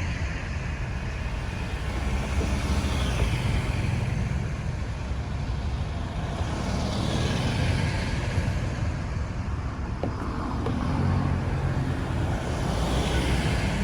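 Road traffic: a steady low rumble of engines, with a tyre hiss that swells and fades three times as vehicles pass.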